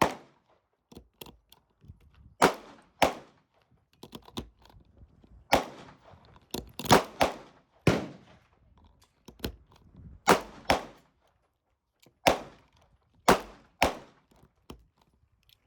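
Pistol shots at a shooting range: about a dozen loud, sharp reports fired at an uneven pace, singly and in quick pairs, each with a short ringing tail, with a few fainter shots in between.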